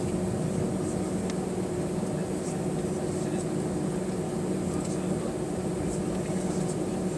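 Steady hum of the Airbus A320's CFM56 engines heard from inside the rear cabin, with a few faint ticks.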